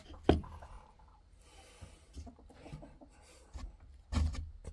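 Hands rustling and scraping through a chicken nest box while gathering eggs, with a sharp knock just after the start and a louder burst of noise near the end.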